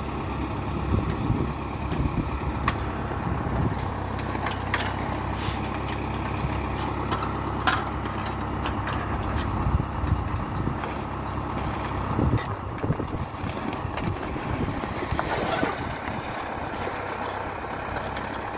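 Valmet 705 tractor's diesel engine running steadily, with sharp knocks and clatter now and then.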